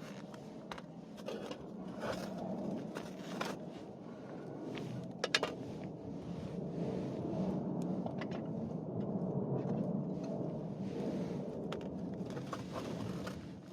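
Wood campfire burning: a steady low rush of flames with scattered sharp pops and crackles, the loudest a double pop about five seconds in.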